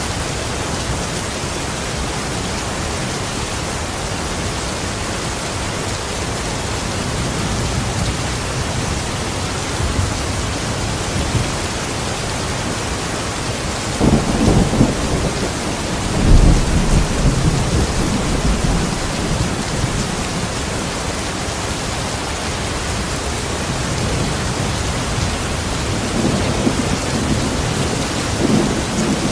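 Steady heavy rain with thunder. Low rolls of thunder rumble in about halfway through, loudest a couple of seconds later, and rumble again near the end.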